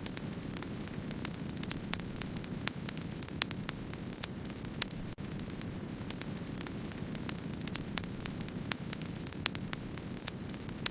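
Wood fire burning: a steady low rush with frequent sharp crackles and pops at irregular intervals.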